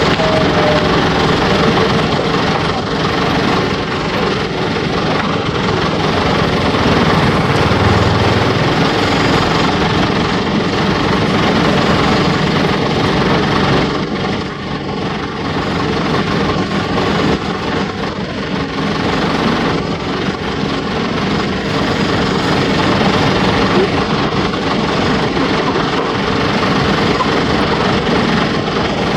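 Steady, loud engine noise with a constant hiss, unbroken throughout.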